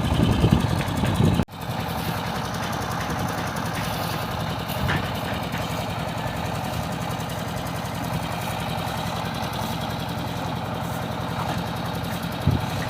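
An engine running steadily at idle, cut off abruptly about one and a half seconds in and then resuming as an even hum, with a single knock near the end.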